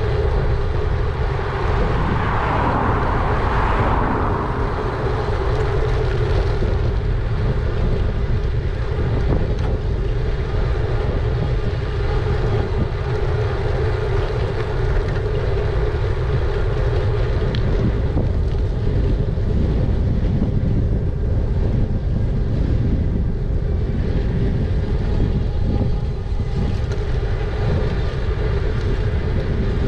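Wind buffeting the microphone of a moving e-bike as a steady low rumble, over a constant mid-pitched hum. A brief rushing swell rises and fades a few seconds in.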